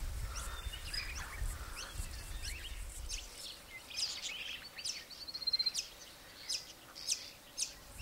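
Wild birds calling in many short, sharp, falling chirps, with a quick even trill about five and a half seconds in. A low rumble underneath fades out after about three seconds.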